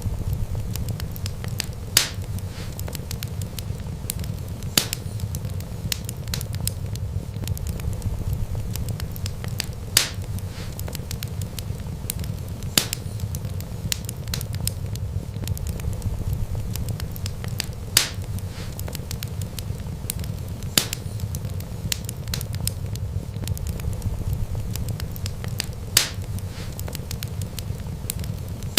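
Wood fire crackling over a steady low rumble of flame, with dense small crackles and a louder sharp pop every few seconds. The pops fall in a pattern that repeats every eight seconds, as in a looped recording.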